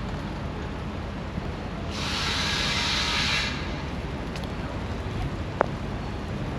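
Steady low outdoor rumble, with a sharp-edged hiss starting about two seconds in and lasting about a second and a half, and a single click near the end.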